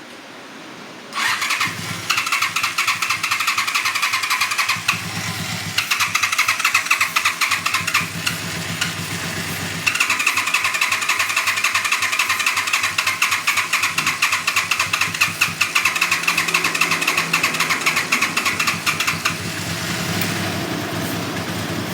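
Honda VT250Z 250 cc V-twin motorcycle engine being started: the starter cranks it in three long stretches with short breaks between them. Near the end the engine runs on its own with a steadier, lower sound.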